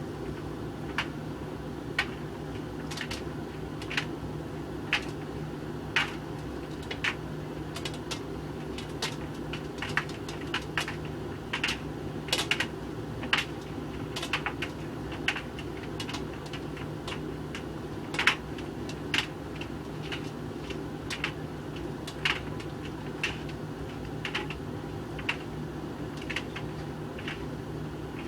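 Hoover VHV680C tumble dryer running with a load of coloured clothes tumbling in the drum: a steady hum with frequent sharp, irregular clicks, about one or two a second.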